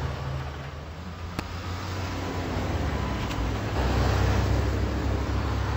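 Low engine rumble and road noise from vehicles on a highway, getting louder a little under four seconds in, with one sharp click about a second and a half in.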